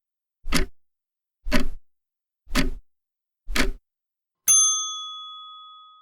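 Countdown timer sound effect: clock ticks about once a second, four times, then a bell ding that rings and fades, marking the end of the thinking time before the answer.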